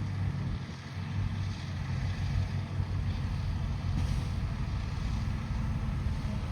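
Bulldozer's heavy diesel engine running steadily with a low, deep drone.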